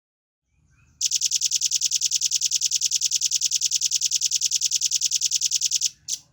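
Velvet-fronted nuthatch singing a rapid, even trill of high notes, about ten a second, lasting about five seconds, followed by one short note.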